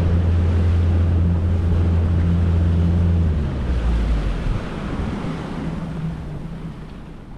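Boat engine running steadily with a low hum, then throttled back a little over three seconds in, its pitch dropping and fading away. Wind and water noise rush throughout.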